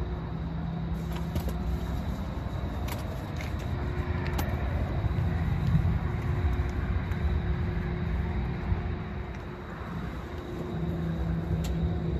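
A car driving: a steady low rumble of engine and road noise with a constant low hum, and a few faint clicks.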